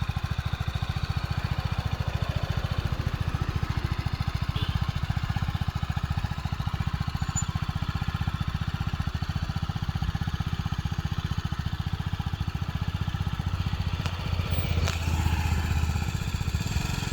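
BMW GS motorcycle engine running steadily under way, growing louder for a couple of seconds about fourteen seconds in.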